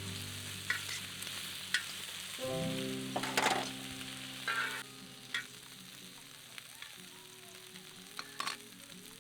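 Food sizzling and frying in a pan, with a few sharp clicks of utensils against the pan. Quiet background music plays underneath with held notes.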